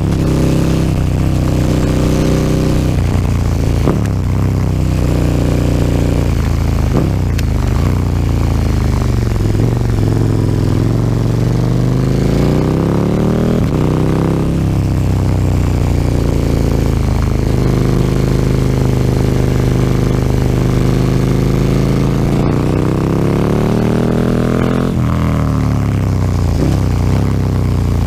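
KTM 1290 Super Duke R's V-twin engine through an Akrapovic slip-on exhaust, riding along: its pitch rises under acceleration and falls away as the throttle closes or a gear is changed, with a strong climb cut off sharply about halfway through and another near the end.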